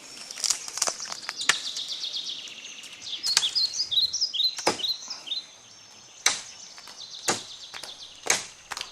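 Small birds chirping in quick, high, downward-gliding notes. In the second half there are sharp taps about once a second.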